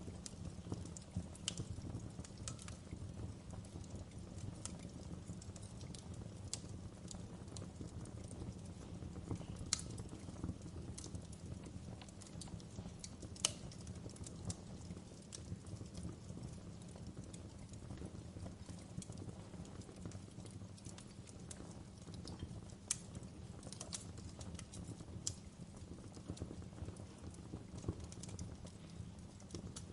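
Wood fire crackling in a fireplace: irregular sharp pops and snaps over a steady low rumble of burning, with the loudest pop near the middle.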